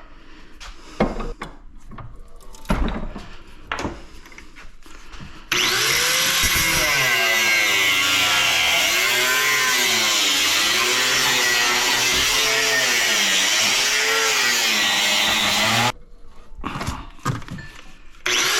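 A few knocks and clanks, then a handheld power tool runs for about ten seconds, its pitch wavering up and down as it bites into metal scrap. It stops, a few more knocks follow, and it starts again near the end.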